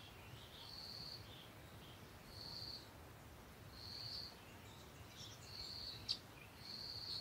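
Faint bird calls: six short, flat, high notes about every second and a half, with softer chirps in between. A single sharp click comes about six seconds in.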